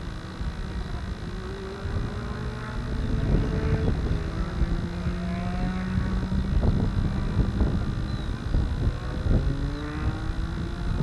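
Electric motor and propeller of an AXN radio-controlled plane running, its whine sliding up and down in pitch as the throttle changes, under heavy wind buffeting on the microphone.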